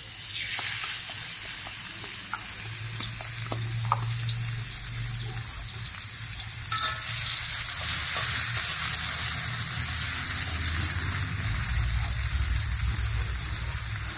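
Pounded garlic, shallot and dried-shrimp paste sizzling in hot oil in a wok, stirred with a metal spatula that clicks and scrapes on the pan. The sizzle gets louder about seven seconds in.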